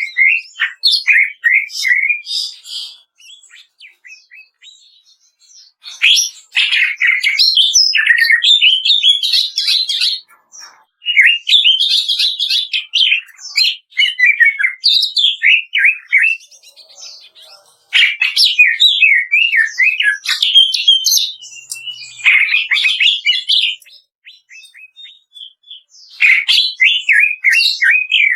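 Cucak ijo (green leafbird) singing its crackling 'kretekan' song: bouts of fast, varied rising and falling notes, several seconds long, with pauses of a second or two between them.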